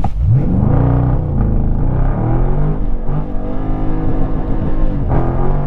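A 6.4-litre V8 engine of a Dodge Charger Scat Pack under hard acceleration, heard from inside the car: the engine pitch sweeps up as it launches, then rises and drops back several times as it changes gear, climbing again near the end.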